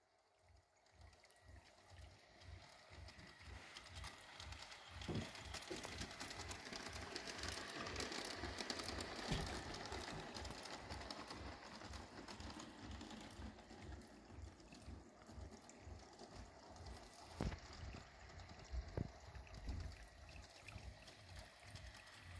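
G-scale garden model train running along its track: a steady running noise of motor and wheels with a regular low pulsing and a few sharp clicks.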